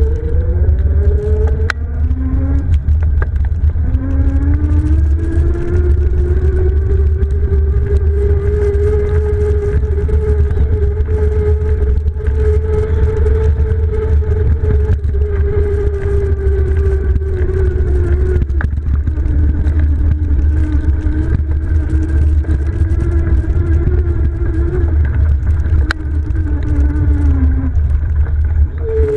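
Electric bike hub motor whining as the bike rides: the pitch climbs as it speeds up, holds steady, then drops suddenly about two-thirds of the way through and sags slowly. Heavy wind rumble on the microphone runs underneath.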